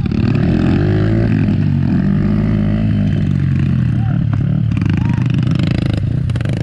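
Several dirt bike engines running at once, their pitch rising and falling as they rev and ease off.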